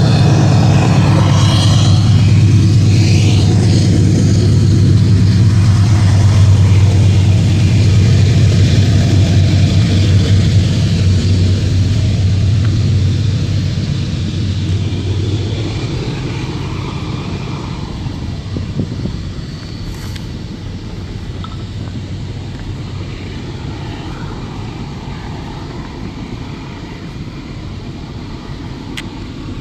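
Diesel-electric freight locomotive (GE AC44i) engine running with a steady low hum, fading away about halfway through, leaving the duller rumble of the train rolling on.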